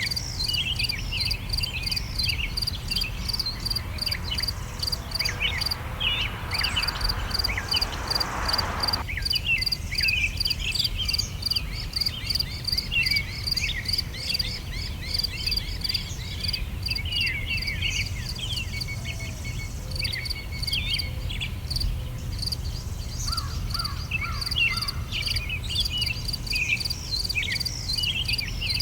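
Outdoor summer ambience: several birds singing and chirping in quick, overlapping phrases over a rapid, steady high chirping of insects and a low background rumble. A hiss swells from about six seconds in and cuts off suddenly around nine seconds.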